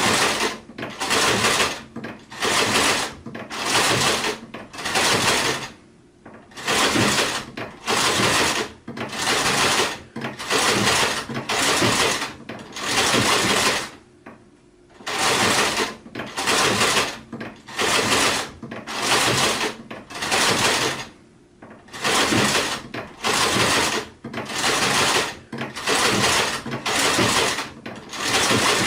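Sewing machine stitching in short runs, about one a second, each run stopping after well under a second before the next starts.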